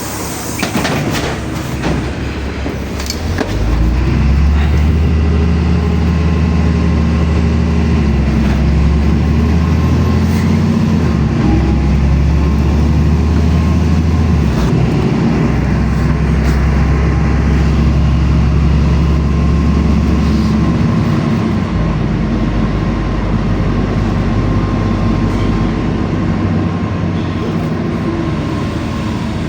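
LiAZ-5292.65 city bus heard from inside the passenger cabin: the engine's low drone grows loud about four seconds in as it comes under load, runs steadily with a short dip about ten seconds in, then eases off about twenty seconds in.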